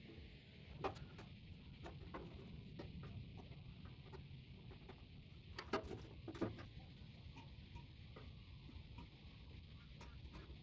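Scattered light clicks and taps, with sharper knocks about a second in and twice close together around six seconds in.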